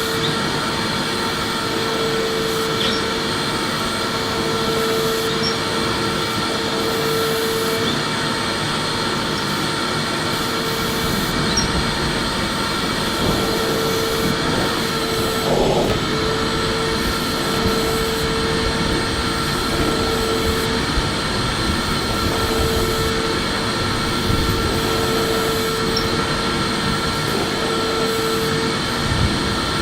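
Electric vacuum cleaner running steadily: a constant rush of air with a steady motor whine over it.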